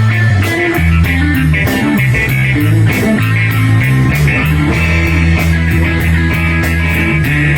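A live rock band playing an instrumental passage without vocals: guitar over bass guitar and a drum kit keeping a steady beat.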